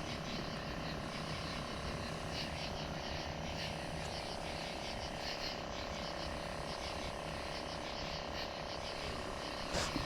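Steady background rush with faint, rapidly repeated chirping calls of frogs at night.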